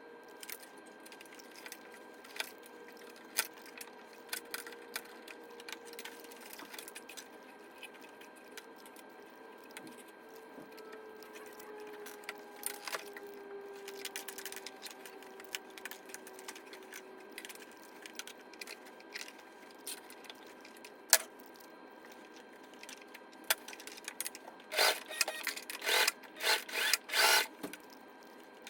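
Scattered light clicks and handling noises, then near the end a heavy-duty sewing machine stitching in several short bursts.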